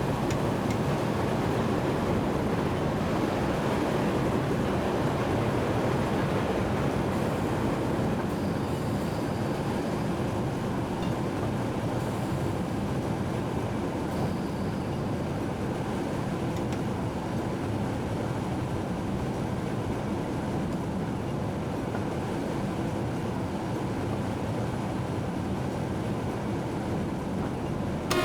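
Steady running noise of a train moving along the rails, heard from inside the locomotive's driver's cab.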